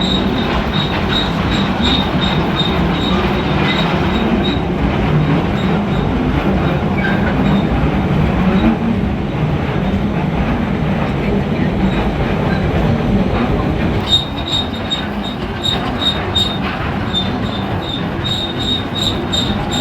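A train running steadily, heard while riding it, with a light, evenly spaced ticking that fades for several seconds in the middle and then returns.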